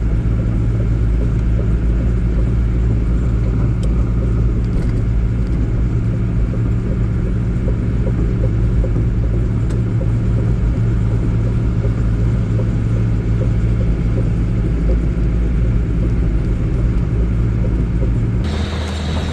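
A vehicle's engine running steadily with a low rumble, its sound changing suddenly near the end.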